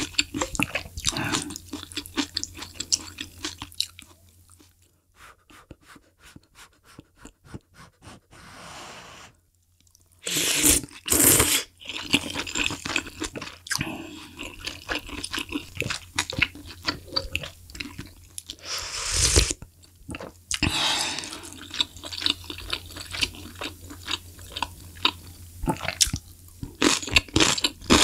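Close-miked chewing of malatang noodles and hot pot ingredients: wet mouth clicks and crunching, with a few loud slurps, the loudest about ten seconds in and again near nineteen seconds.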